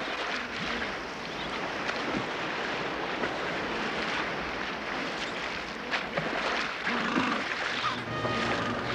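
Surf breaking and washing over rocks, with wind noise. Music comes in near the end.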